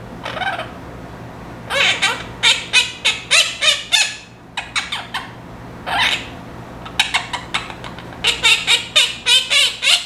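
Pet parrot squawking in two rapid bouts of short, harsh, high calls, several a second.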